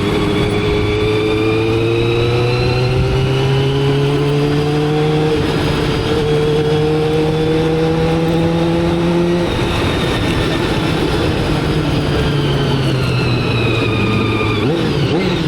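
Motorcycle engine under way: its note rises slowly as it accelerates for about nine seconds, then the throttle closes and the pitch falls steadily as the bike slows, with a quick shift in the engine note near the end.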